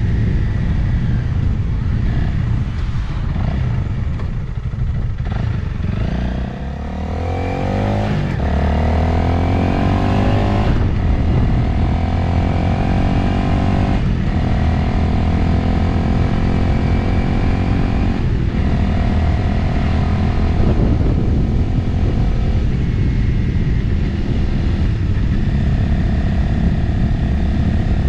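Motorcycle engine and wind noise while riding. About a quarter of the way in the engine eases off, then climbs steadily in pitch as the bike accelerates. It is shifted up several times, each shift a short break in the sound, and then holds a steady cruise.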